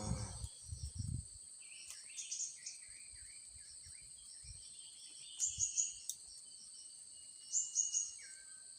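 Blue-crowned hanging parrots giving short, shrill chirps in quick groups of three or four, a few seconds apart, over a steady high drone of insects.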